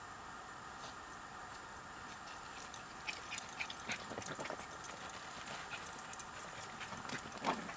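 Footsteps crunching through dry fallen leaves, as irregular crackles and rustles that thicken about halfway through, with one louder crunch near the end.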